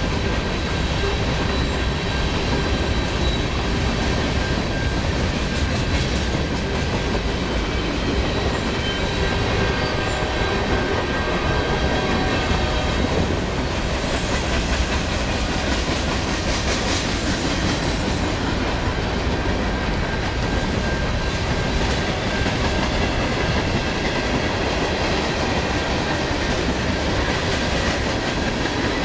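Freight train of covered hopper cars rolling past, steel wheels running over the rails in a steady, loud rush of noise, with a few thin, high, steady tones over it.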